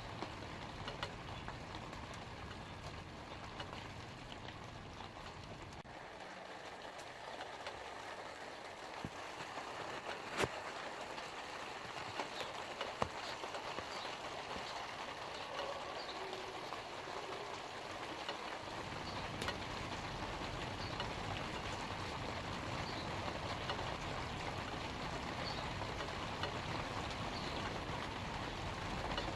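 Light rain falling on leaves: a steady patter with scattered sharper drop hits. A low rumble underneath fades out for several seconds mid-way and then returns.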